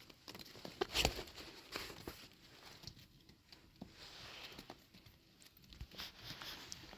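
Scattered light taps and knocks, the loudest about a second in, with a soft rustling hiss around four seconds in.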